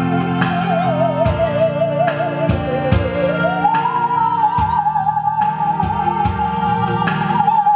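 Musical saw playing a slow melody with wide vibrato, sinking low about three seconds in, then gliding up to a higher held note, over a backing track with a steady beat.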